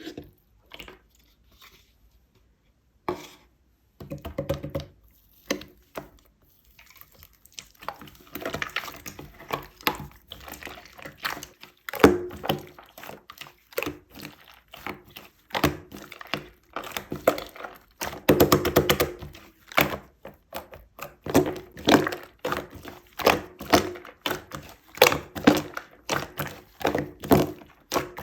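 Drink-making handling sounds: a string of thunks, knocks and clatters as containers and tools are set down and handled, sparse at first and busier after about eight seconds.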